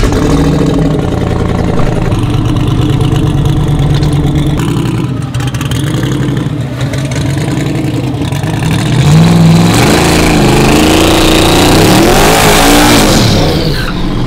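Twin-turbo LS V8 street truck running at idle, then revved hard about nine seconds in for a burnout: the engine pitch climbs and wavers as the tyres spin, with a loud rushing hiss that builds and cuts off just before the end.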